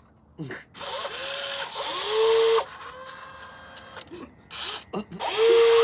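Small electric motors of an RC construction model whirring in bursts: each start rises in pitch to a steady whine with a hiss, in a long burst about a second in and another near the end, with short blips between.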